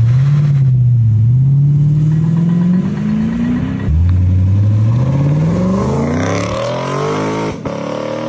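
Lexus RC F's V8 running through a newly fitted aftermarket sport exhaust, accelerating with its pitch rising steadily. There are two separate runs, with a sudden break about four seconds in and again near the end.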